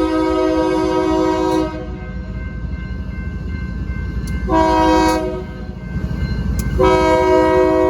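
Diesel locomotive's multi-chime air horn sounding a long blast, a short one and another long one, the end of the standard grade-crossing signal. A low rumble from the train runs underneath.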